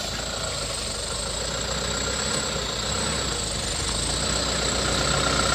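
A motor running steadily with a high whine, getting gradually louder.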